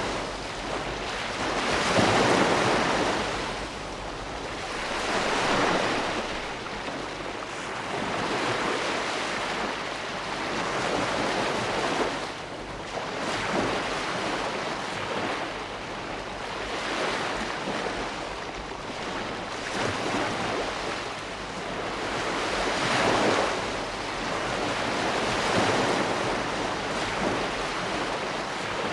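Ocean waves breaking and washing ashore, a steady rushing surf that swells and eases every few seconds.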